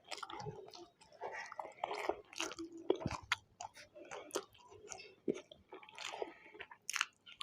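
A person chewing food close to the microphone, with irregular wet smacks and crunchy clicks.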